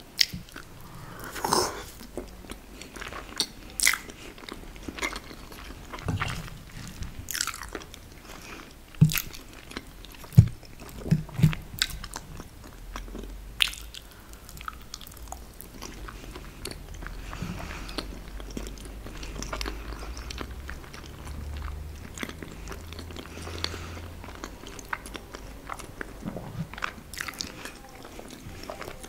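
Close-miked eating of vegan lasagna bolognese: wet chewing and mouth smacks, with scattered sharp clicks and a few louder knocks.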